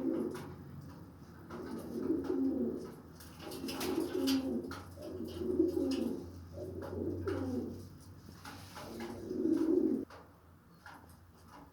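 Domestic Shirazi pigeon cooing: about six low, warbling coo phrases in a row, stopping about ten seconds in.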